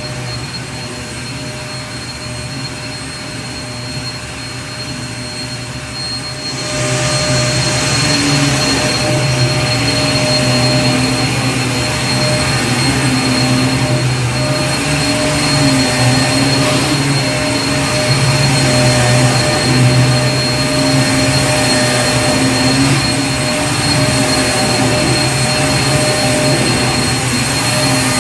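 Vacuum cleaner running steadily: a continuous whooshing hiss with a low motor hum and a faint high whine. About six seconds in it gets louder and brighter.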